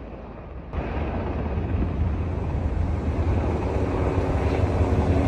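Steady aircraft engine noise that starts abruptly about a second in, with a faint steady hum joining partway through.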